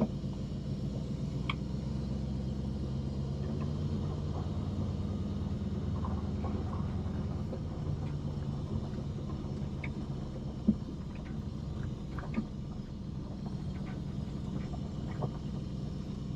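1996 Ford F250 truck driving, heard from inside the cab: a steady low engine and road rumble, with scattered small clicks and rattles and one sharper knock about ten seconds in.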